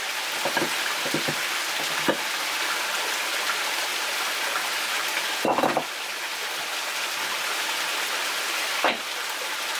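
Steady hissing noise with a few short knocks, the loudest about five and a half seconds in.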